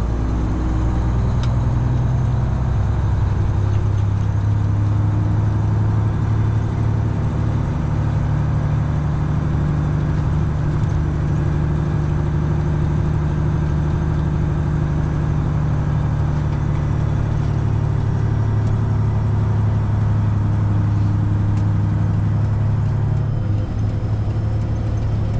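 Semi truck's Detroit Diesel 12.7 engine running at a steady drone while the truck drives on, with a deep, even hum and only slight shifts in pitch.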